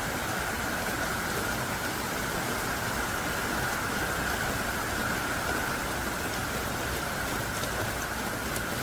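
Heavy, thick-dropped rain falling steadily, a dense even hiss with a few faint drop clicks.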